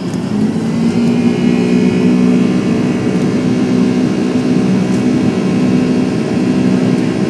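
Jet engines of a Boeing 757 running steadily during a go-around: a loud low drone with a faint higher whine.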